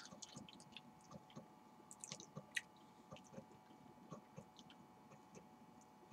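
Faint mouth sounds of someone chewing a soft banana: scattered soft wet clicks and smacks, a cluster of them about two to two and a half seconds in, over a faint steady hum.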